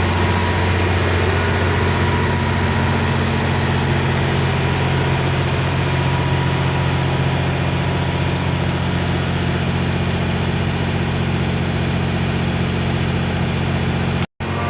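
A stationary train's engine idling with a steady low hum, the sound cutting out for an instant near the end.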